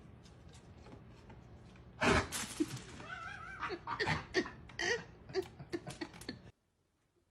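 A sudden loud noise about two seconds in, then a pet's wavering cries among short sharp sounds, cutting off suddenly near the end.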